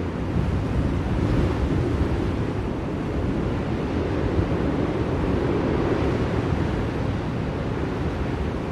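Steady blizzard wind, a deep rushing noise that swells and eases slightly without pause.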